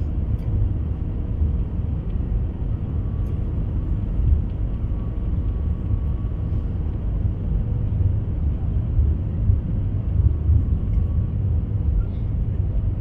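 Steady low rumble of an Airbus A320's engines and airflow heard from inside the passenger cabin.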